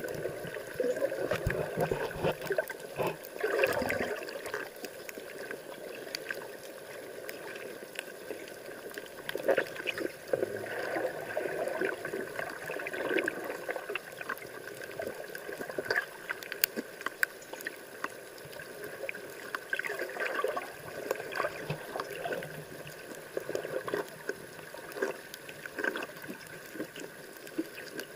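Seawater sloshing and gurgling, with many irregular small clicks and splashes.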